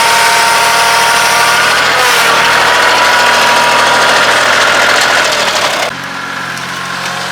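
Kioti CK2610 compact tractor's three-cylinder diesel engine running hard under throttle, then easing off abruptly near the end to a lower, quieter run.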